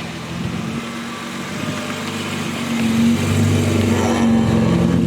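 Car engine running with a low, steady note that grows louder about three seconds in.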